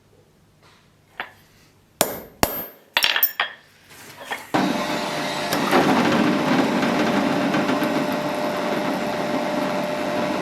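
Four sharp, ringing hammer strikes on steel. About halfway in, a machine starts and runs steadily with a constant hum.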